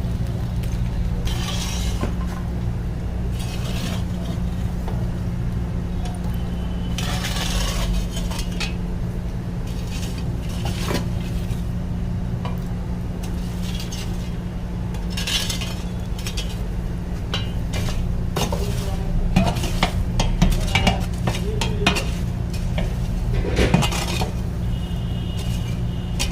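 Metal utensils clinking and scraping against a large cooking pot in irregular strokes, over a steady low hum; the strokes come more often in the last third.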